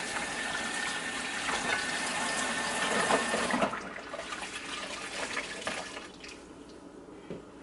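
Kitchen tap running into the sink as hands are washed under it, with a thin steady whistle in the flow. The water shuts off about three and a half seconds in, leaving only faint handling noises.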